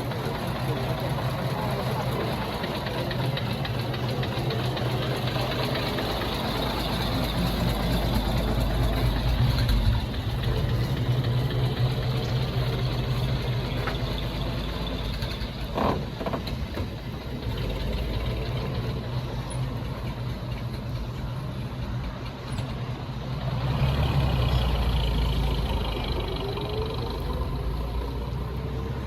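Vehicle engine idling steadily, growing louder for a few seconds about eight seconds in and again near the end.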